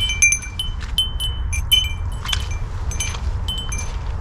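Metal wind chimes ringing irregularly as they are struck, with several tones overlapping, busiest in the first two seconds and thinning out after that, over a steady low rumble.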